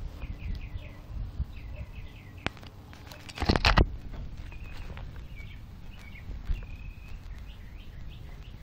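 Small birds chirping in short repeated notes, with a loud rustling knock of handling noise a little over three seconds in as the phone is moved across the grass.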